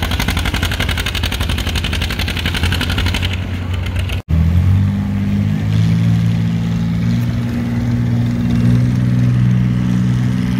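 Antique farm tractor engine working hard, with a rapid, even firing beat. It cuts off abruptly about four seconds in and gives way to a tractor engine running steadily at a lower pitch.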